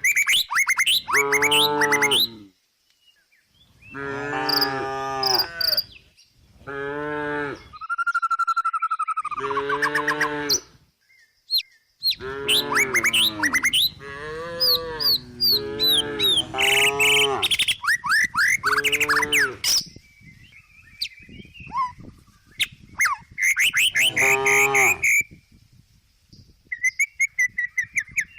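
Cow mooing in a series of repeated calls, with short gaps between them and bird chirps alongside.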